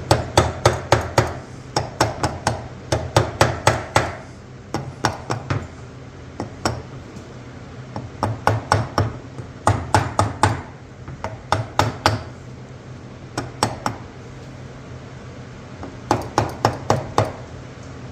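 Runs of quick, light hammer taps, about five a second, in several bursts with pauses between: the two-stroke cylinder being tapped down over its locating dowels. A steady low hum sits underneath.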